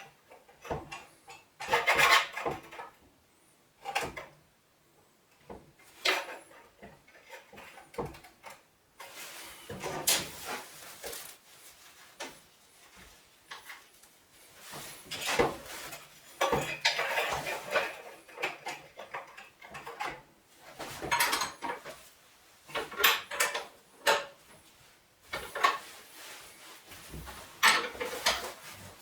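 Metal parts and tools clinking, knocking and scraping as they are handled, in irregular bursts with short pauses between.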